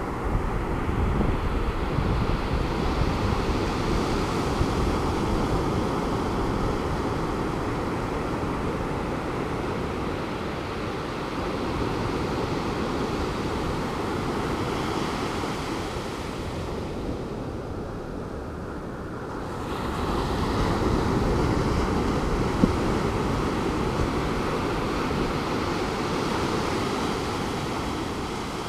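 Calm Pacific Ocean surf breaking and washing onto the beach, a continuous rush that swells as waves break, louder near the start and again about two-thirds of the way through.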